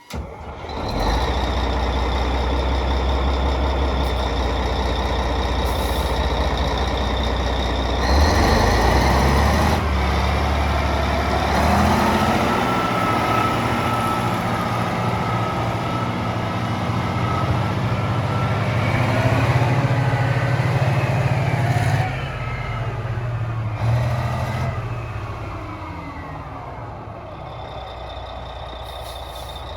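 Cat 773B rock truck's diesel engine running. It revs up about eight seconds in and holds higher revs for roughly ten seconds, drops back near the end and settles to a lower idle. A thin, steady high whine sits over the engine at the start and again near the end.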